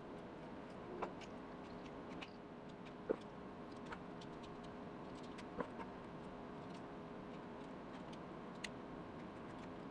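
Faint steady hum with a thin steady tone, broken by about a dozen light, sharp ticks and clicks scattered irregularly, the loudest about three seconds in.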